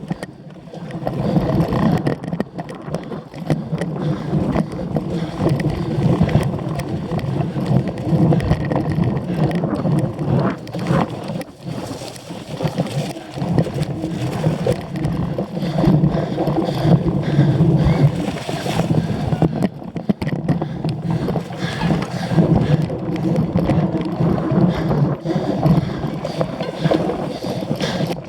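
Wind rushing over the microphone and a cyclocross bike rattling and knocking as it is ridden hard over rough, bumpy ground, in a steady jumble of many small knocks.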